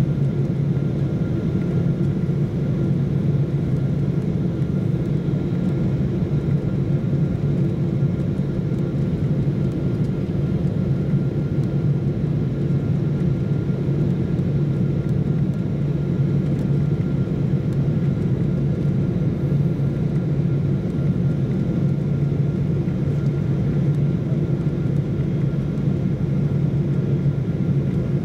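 Jet airliner cabin noise heard from inside: a steady rumble of engines and airflow with a low hum and a faint high whine, unchanging throughout.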